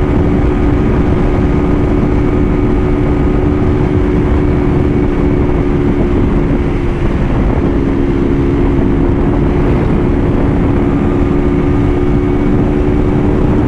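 Honda CG 160 Start motorcycle with a new aftermarket exhaust, its single-cylinder engine held at high revs at near top speed: a steady drone under heavy wind rush on the microphone. The engine note dips briefly about seven seconds in.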